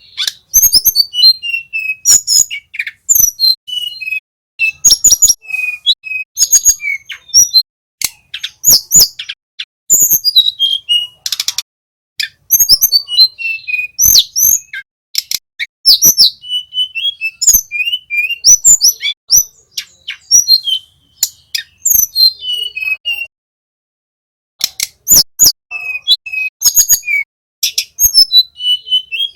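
Male tledekan gunung singing a fast, busy song of high chirps, sharp clicking notes and short trills, with a pause of about a second late on.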